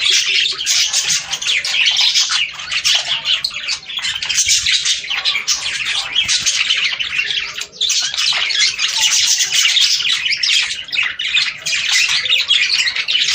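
A flock of budgerigars chattering and warbling without pause, many birds at once, with high squawks and chirps throughout.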